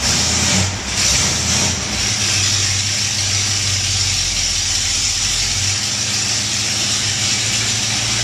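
Ford 460 big-block V8 idling steadily.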